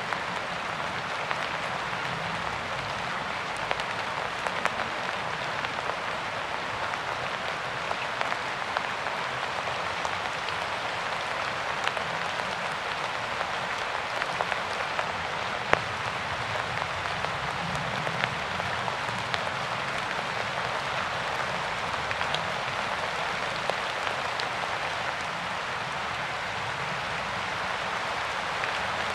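Steady rain falling, an even hiss with scattered individual drops ticking through it and one sharper drop about halfway through.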